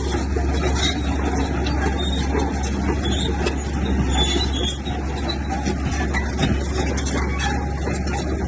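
Bulldozer's diesel engine running steadily under load, with short high squeals scattered through it.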